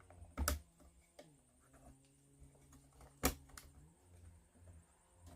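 Small plywood kit parts being handled and pressed together by hand, with two sharp wooden clicks, one about half a second in and one around three seconds in, amid faint handling rustle.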